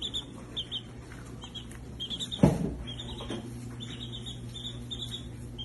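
Baby chick peeping in quick runs of short, high peeps, with a single thump about two and a half seconds in.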